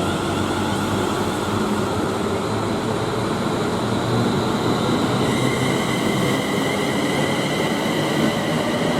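A train moving through the station with a steady rumble. About five seconds in, a high whine of several tones sets in and rises slightly.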